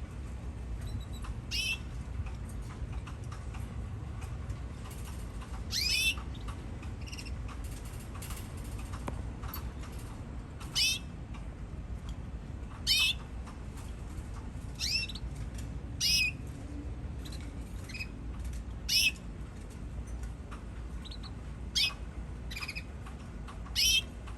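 Canaries giving short, high chirping calls every two to three seconds, about nine in all, over a steady low hum.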